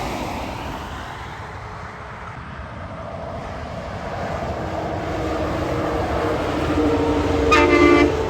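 Heavy trucks passing on a highway. One approaches with its engine building steadily louder, and a short horn blast sounds near the end.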